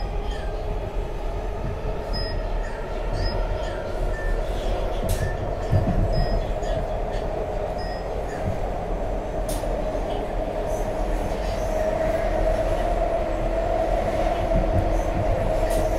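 SEPTA Market-Frankford Line subway-elevated train heard from inside the car while moving: a steady rumble of wheels on rail with a constant mid-pitched hum, and a few faint clicks.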